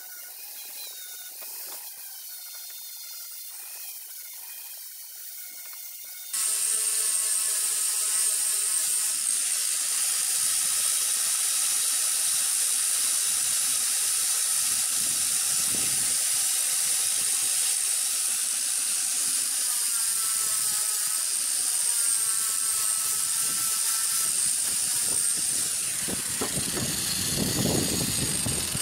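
Power sander running steadily: it starts abruptly about six seconds in, a loud hiss with a high whine over it.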